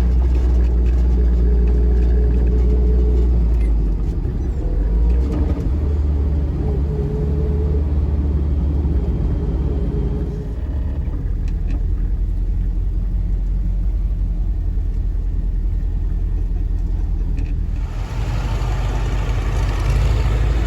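A car running, a steady low rumble that shifts a little in pitch and level a few times.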